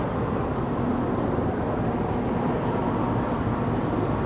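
Steady low rumble of distant engine noise with a faint constant hum.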